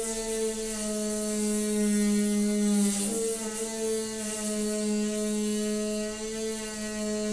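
Noisy water pipe humming: a steady droning tone with overtones that steps slightly in pitch right at the start and again about three seconds in, over a steady hiss.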